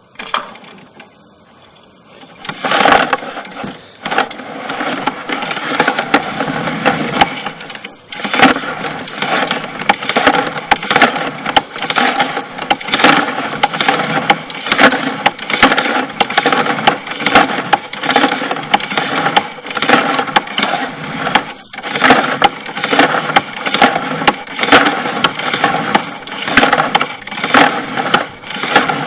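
Sewer inspection camera's push cable and camera head rattling and scraping as it is fed through the drain pipe, a dense clatter that swells and fades about once a second. It starts about two and a half seconds in.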